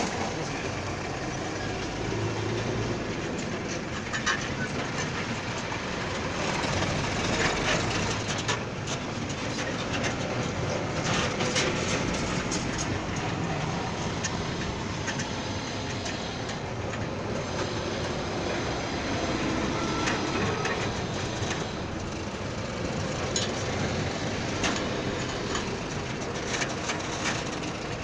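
Steady mechanical rumble with scattered metallic clanks and clatter, typical of heavy-vehicle workshop noise.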